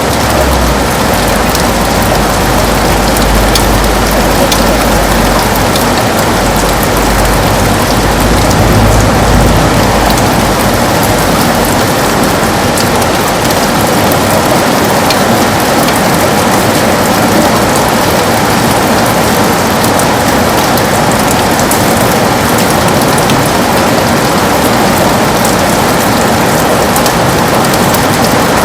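Heavy rain beating on a window glass, a loud, dense, steady patter with sharp individual drop ticks. A low rumble underneath fades away about halfway through.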